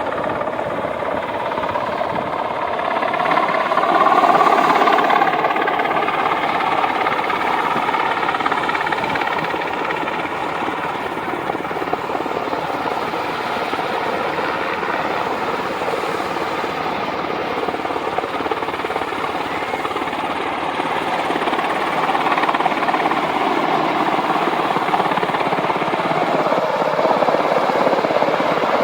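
US Army UH-60 Black Hawk helicopters flying, a continuous rotor and turbine noise. It swells to its loudest about four seconds in, where a whine bends in pitch, then holds steady and rises again slightly near the end.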